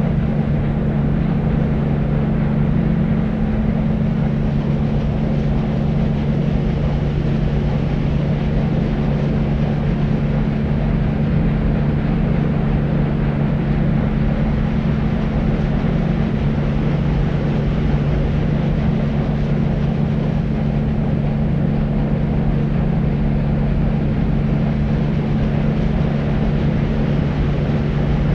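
Deep white noise: a steady, even low rumble with a humming band in the low range and little hiss on top, unchanging throughout.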